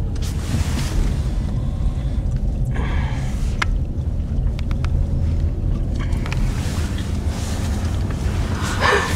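Steady low rumble of a car's engine and tyres heard from inside the cabin while driving slowly on a snow-covered road, with a few faint clicks now and then.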